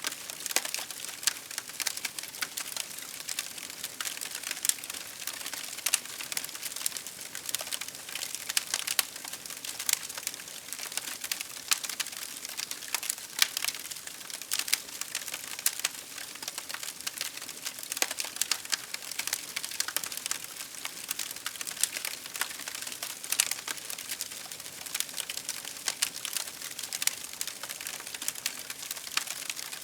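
Wood fire crackling steadily: dense irregular pops and snaps over a soft hiss.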